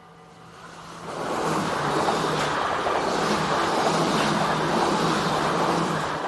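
Passenger train passing close by a level crossing. A loud, steady rush of running noise builds about a second in, holds, and eases off near the end.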